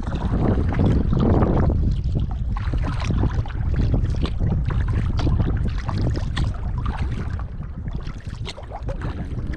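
Kayak paddle strokes: the blade dipping and splashing, with water dripping, over wind rumbling on the microphone. A stronger gust of wind comes in the first two seconds.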